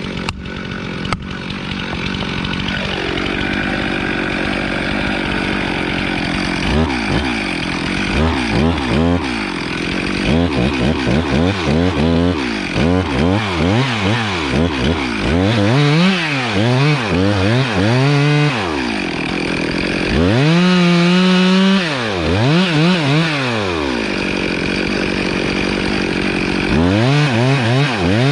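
Stihl two-stroke chainsaw idling, then from about seven seconds in revving up and down over and over as it cuts. It is held at high revs for a couple of seconds about two-thirds of the way through.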